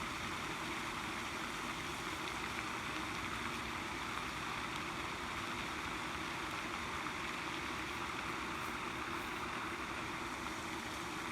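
Steady, unbroken drone of a cicada chorus.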